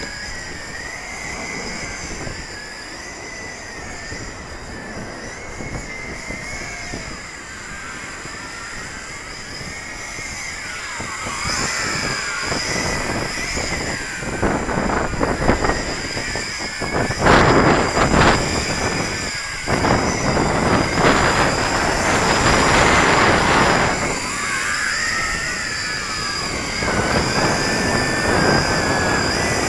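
Yi Zhan Tarantula X6 hexacopter's motors and propellers whining, the pitch wavering up and down as the throttle changes against gusty wind. Heavy wind buffets the microphone, in loud rushing gusts in the second half.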